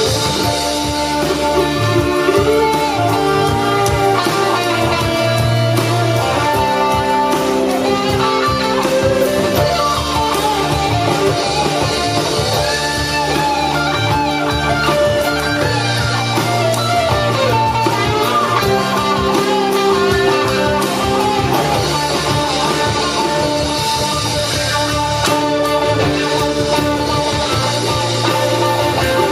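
Blues band playing an instrumental passage, an electric guitar playing bending lead lines over a steady bass line.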